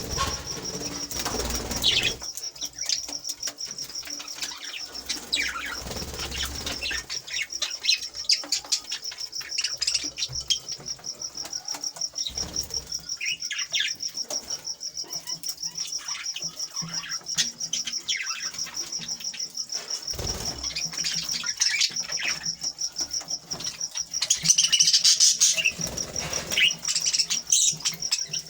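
Cage birds chirping, with many short calls that glide up and down, over a steady high, fast-pulsing trill. The calling grows busier and louder near the end.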